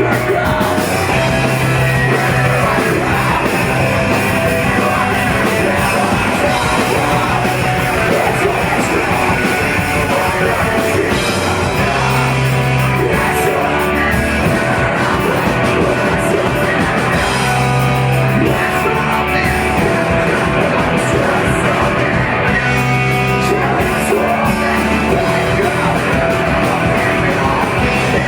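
Live post-hardcore band playing loud, with drums, amplified instruments and yelled vocals.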